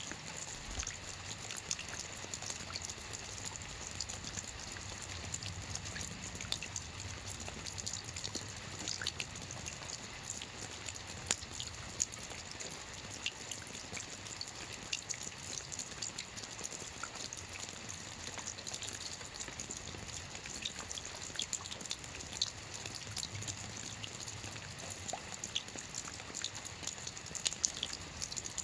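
Soft rain falling steadily on a roof, an even patter with many individual drops ticking throughout.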